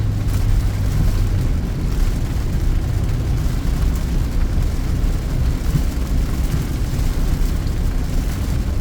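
Peugeot 2008 heard from inside the cabin while climbing under load on a wet road: a steady low rumble of engine and tyre noise, with an engine tone that fades out about a second and a half in.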